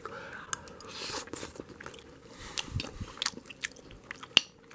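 Close-up chewing of a mouthful of chicken pot pie with flaky pastry crust: soft crunches and wet mouth clicks, with one sharper click near the end.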